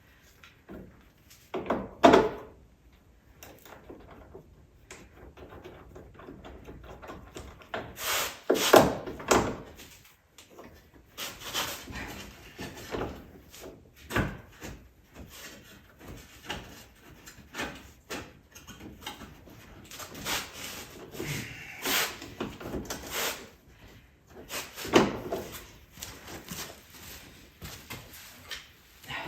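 Hand work on an ATV: scattered knocks, clicks and rattles of tools and parts being handled, with louder clunks about two seconds in, around eight to nine seconds, and again near twenty-five seconds.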